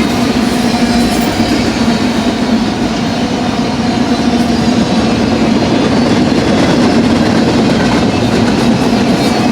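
A BNSF double-stack container freight train rolling past close by, its steel wheels on the rails making a loud, steady rumble and clatter with a constant low hum.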